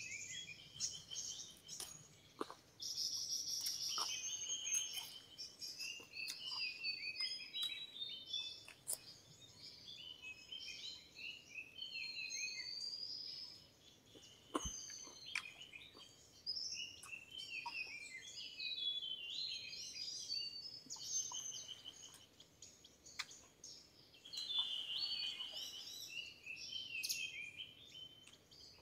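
Several forest birds calling and chirping at once, many short overlapping chirps and trills with no pause, with a few short clicks among them.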